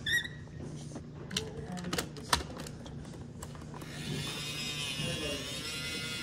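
Toy garbage truck being handled: scattered plastic clicks and knocks, then about four seconds in its small electric motor starts up with a wavering whine.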